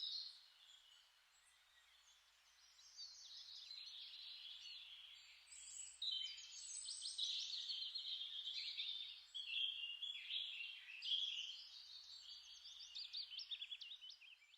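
Birds singing, a dense run of quick, high chirps and trills that starts about three seconds in after a silent gap.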